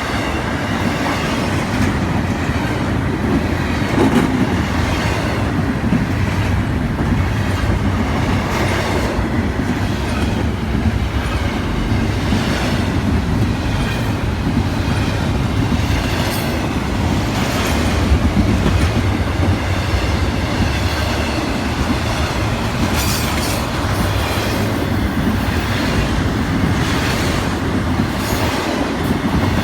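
Intermodal freight cars rolling past at track side: a steady rumble, with the wheels clicking over rail joints throughout.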